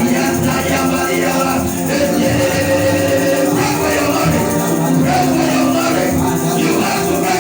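Church background music: sustained keyboard chords with a light rattling percussion beat, under many voices praying aloud at once.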